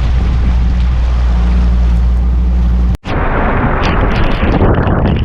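A boat's outboard motor runs with a steady low hum. About three seconds in the sound cuts abruptly, and storm wind buffets the microphone with a loud rushing roar.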